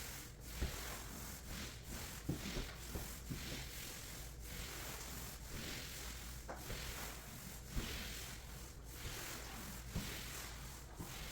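Polyurethane finish being spread over a screened hardwood floor with an applicator: soft, repeated rubbing strokes, about one a second, with a few light knocks.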